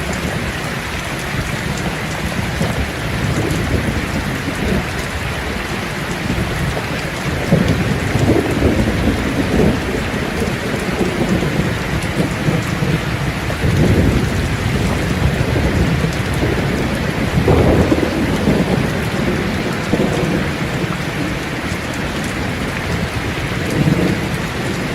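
Steady heavy rain with low rolling thunder that swells up several times.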